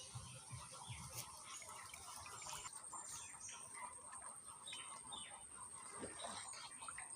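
Small birds chirping and calling faintly in short, quick notes, some sweeping downward, over a steady high-pitched whine.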